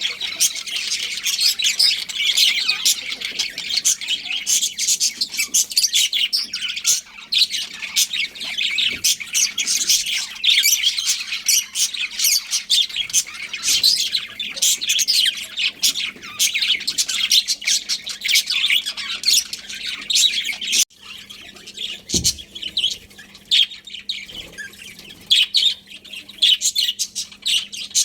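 A flock of budgerigars chirping and chattering in dense, overlapping high calls. The chatter drops off abruptly about three-quarters of the way through and carries on more sparsely, over a faint steady hum.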